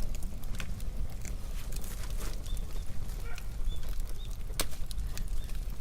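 Wood bonfire burning, with irregular sharp crackles and pops from the wood over a steady low rush; one pop near the end stands out as the loudest.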